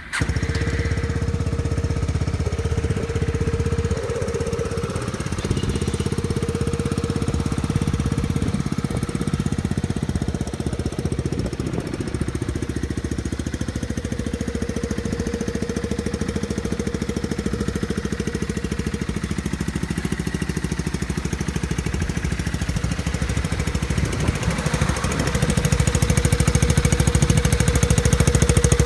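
Yamaha Maxam 250 scooter's single-cylinder four-stroke engine, fitted with a Wiruswin aftermarket muffler. It starts and settles into a steady idle, then runs a little louder near the end.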